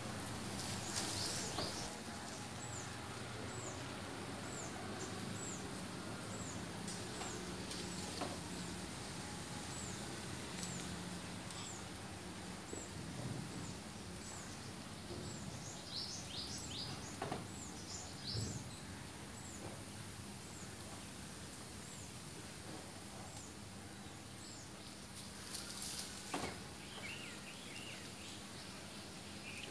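Outdoor birdsong ambience: a bird repeats a short, high chirp roughly once a second, with a few louder bird calls midway and near the end, over a faint steady background hum.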